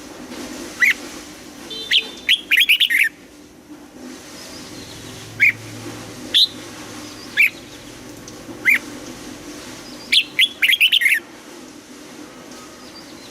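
Red-whiskered bulbul calling and singing: short sharp single notes every second or so, with two quick bursts of song about two and ten seconds in.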